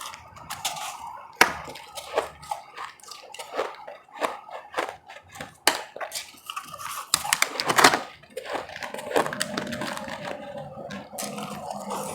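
Close-up crunching of hard frozen ice chewed between the teeth, a run of sharp cracks and crackles that grows densest and loudest about two-thirds of the way through.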